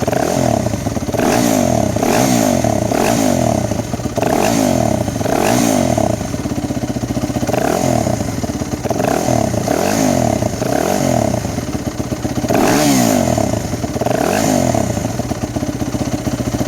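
Yamaha WR250F's fuel-injected 250 cc single-cylinder four-stroke engine, warmed up, revved in a string of about a dozen quick throttle blips, each rising and falling back toward idle.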